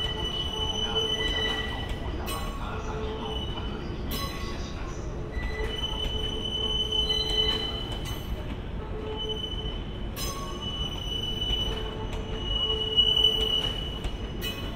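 E259 series electric multiple unit rolling past, its wheels squealing in several steady high-pitched tones that come and go over a continuous rumble of wheels on rails.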